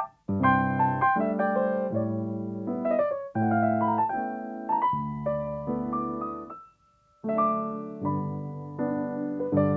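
Solo piano playing slow, sustained chords, with a short pause about two-thirds of the way through.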